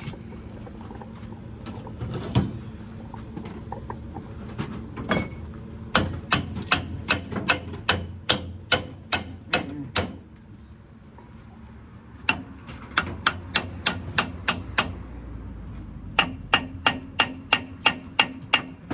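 Hammer striking metal on a rear differential to knock its parts loose: repeated sharp blows in three runs of about two to three a second with short pauses between, the last run ringing.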